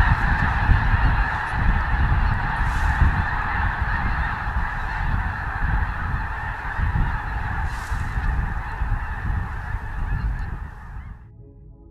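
A large flock of geese calling all at once, a dense, continuous chorus of honks, with a low rumble underneath. It cuts off abruptly near the end.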